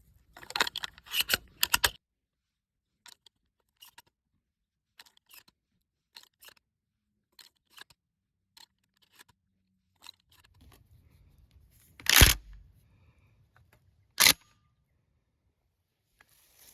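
A quick run of sharp clicks and clacks, then faint scattered ticks, then two sharp, loud impacts about two seconds apart, the first ringing briefly.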